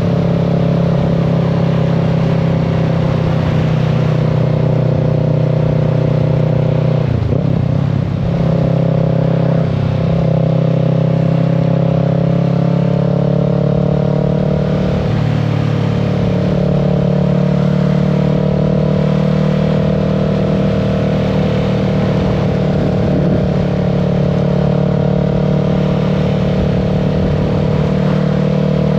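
Kawasaki Z650's parallel-twin engine running steadily while riding, heard from the rider's seat. The engine note breaks briefly about seven and again about ten seconds in, then climbs slightly in pitch.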